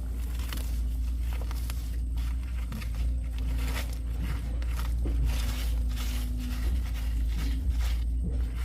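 Repeated scraping strokes, roughly two a second, as dirt and rust are scraped off a metal harrow part, over a steady low rumble.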